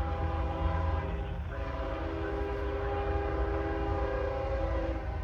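Diesel locomotive air horn on an approaching stack train: a chord of several pitches sounded twice, a blast of about a second and a half and then a longer one of about three seconds, over the low rumble of the train.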